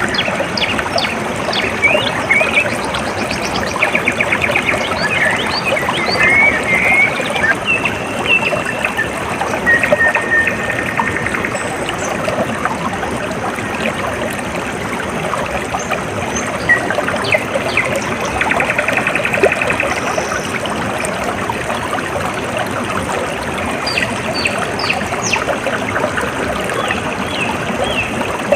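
Water trickling and splashing steadily in a small stream, with birds chirping and trilling over it; the chirps are busiest in the first few seconds and again near the end.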